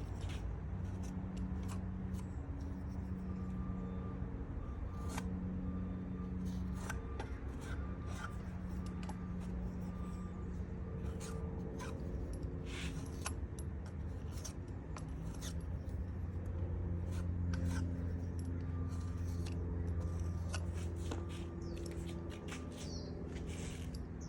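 Putty knife scraping and clicking against wood as filler is pressed into the bench, in many short, sharp strokes over a steady low hum.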